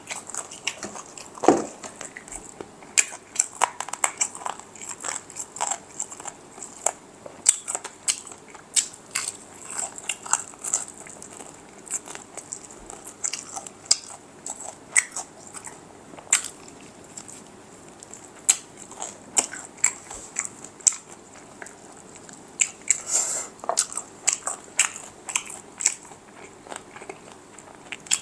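Close-miked eating of crispy fried chicken: many short, sharp crunches of the fried coating between bites and chewing, coming in irregular clusters.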